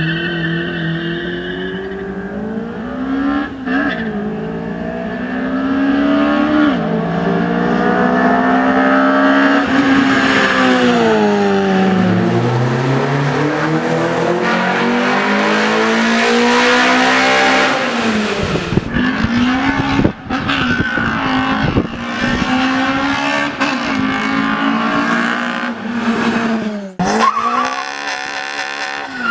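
Car engine accelerating hard, its pitch climbing and then dropping suddenly at each gear change. In the second half it is broken by a string of sharp cracks.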